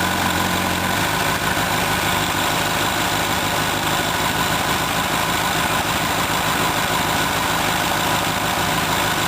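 2006 Honda CBR1000RR's inline-four engine running steadily. Its low hum eases about a second in and comes back near the end.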